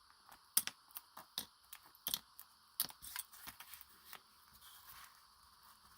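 Irregular small clicks and light rustles of paper and stencils being handled on a craft desk.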